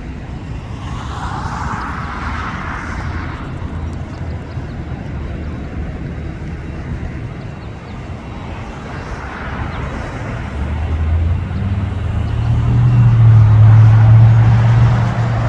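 Low engine rumble over steady outdoor background noise. It swells to its loudest about three-quarters of the way through and eases off near the end, like a vehicle passing close by.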